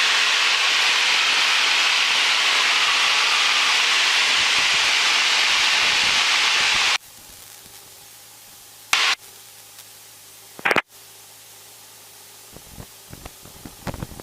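Loud, even radio static hiss over the cockpit audio feed, which cuts off abruptly about halfway through. After it comes a faint steady hum, broken twice by short bursts of static.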